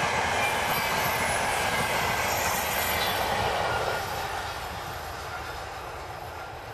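ETR 500 high-speed electric train passing at speed, a steady noise of wheels on rail and rushing air. About four seconds in it starts to fade as the train draws away.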